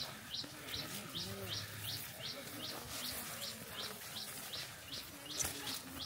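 A bird repeating a short, high, downward chirp at an even pace, about five times every two seconds. There is one sharp click about five seconds in, and faint low voices in the background.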